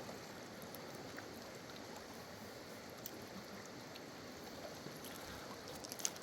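Steady flowing or lapping water, with a few light clicks shortly before the end.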